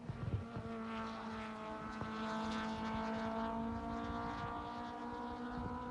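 Car engine running at steady revs, a sustained multi-tone drone that holds nearly one pitch.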